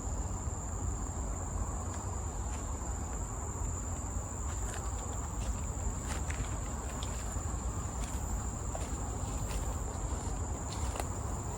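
Insects calling in dense forest: one steady, unbroken high-pitched tone, with scattered faint clicks under it.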